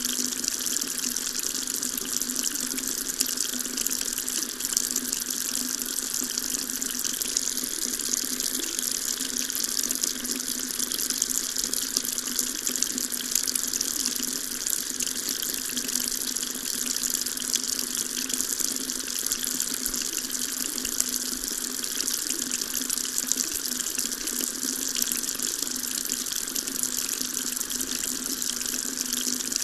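Water tap running steadily, a continuous splashing hiss of water falling into a sink.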